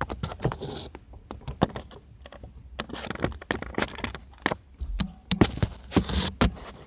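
Irregular clicks, knocks and scraping rustle of plastic dash trim being worked loose: the RX-7's instrument panel housing being pulled free after its screws are out.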